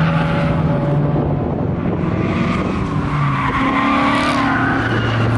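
Race cars passing on a road-course circuit, engines and exhausts running hard. One steady engine note fades about a second and a half in, and another car's note shifts in pitch as it goes by. A new low steady note comes in near the end.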